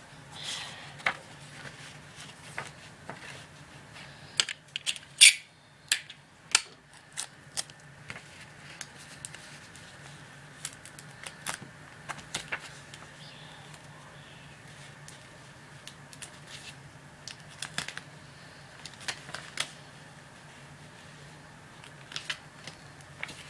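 Paper being handled, folded and creased by hand: irregular crackles, taps and clicks, the loudest about five seconds in, over a faint steady low hum.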